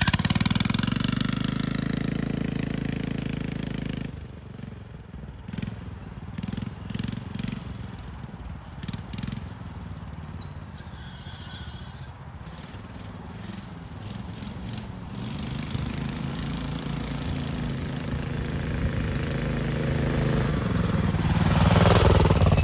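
Minibike with a Honda GX390 single-cylinder engine riding away and fading, its note rising and falling with the throttle while it is farther off, then growing steadily louder as it comes back near the end.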